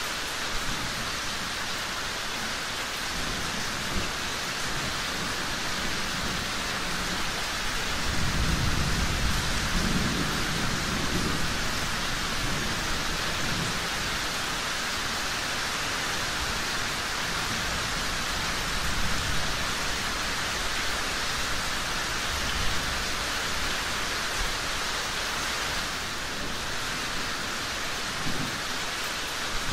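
Steady rain, with a low rumble of thunder swelling about eight seconds in and fading over the next few seconds, and a few short crackles from a fireplace.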